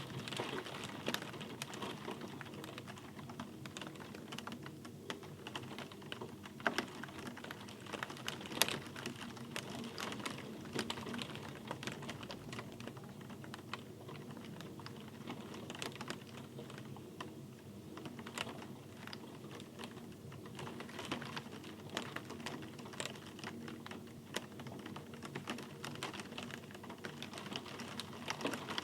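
Rain with many irregular, sharp drops hitting a hard surface over a steady background hiss.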